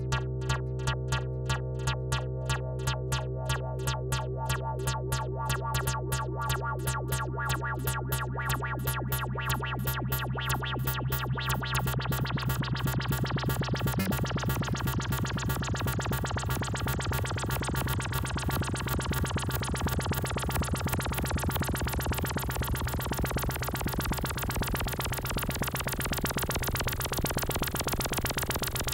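Malekko Manther analog synthesizer playing a repeating step-sequenced bassline on a low note. In the first half the notes lengthen and the tone opens up brighter, merging into a continuous buzzy drone as a parameter is turned.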